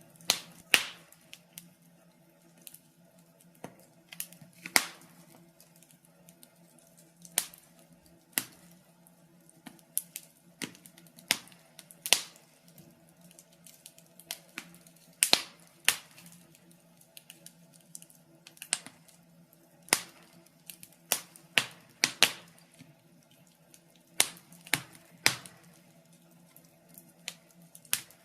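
Wood fire crackling in a fireplace, with sharp, irregular pops every second or two, some much louder than others, over a faint steady low hum.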